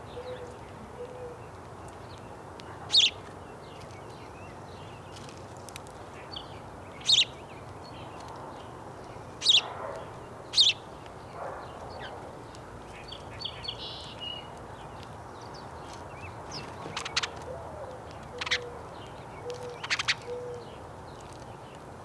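Wild birds calling: about eight short, sharp high chirps scattered through, and twice, at the start and near the end, a low series of four or five soft notes.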